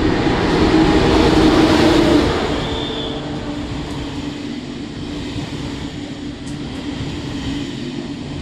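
A Deutsche Bahn ICE high-speed train passing alongside the platform. It is loudest about one to two seconds in as the leading power car goes by, then settles into a steady rolling rush and rumble as the coaches pass.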